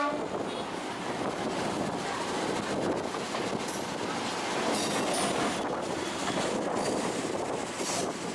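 Train running along the track: a steady rumble of wheels on rail, with a few short clacks scattered through it.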